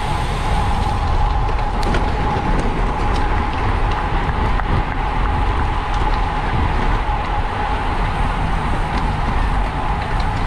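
Steady wind rush and road noise while a road bike is ridden at race speed in a criterium: a constant rumble that doesn't let up.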